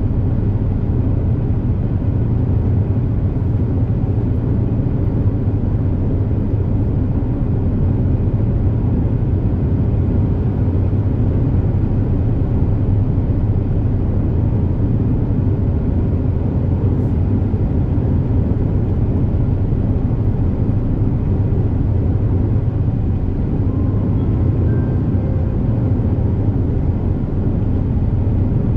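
Steady low drone of the Super Jet high-speed passenger craft's engines and propulsion, heard from inside the passenger cabin while under way at cruising speed.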